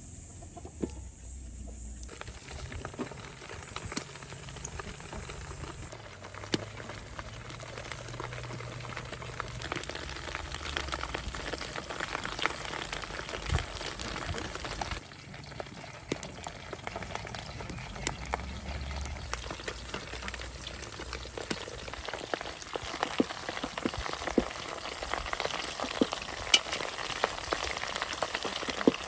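Mutton sizzling and crackling as it cooks, a steady frying hiss dotted with many small sharp pops.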